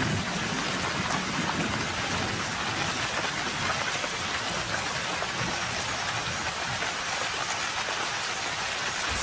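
Tropical rain pouring down steadily: a dense, even patter of countless drops.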